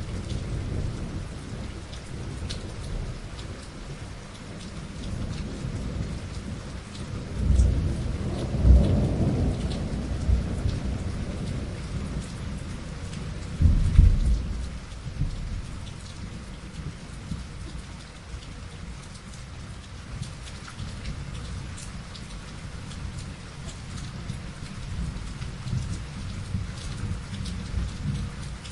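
Thunderstorm: steady rain falling, with rolling thunder. Two loud deep claps of thunder about eight and fourteen seconds in, each rumbling away over a few seconds, and softer rumbling again near the end.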